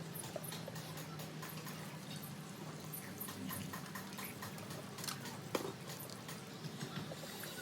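Repair work: scattered light clicks and taps over a steady low hum, with one sharper knock about five and a half seconds in.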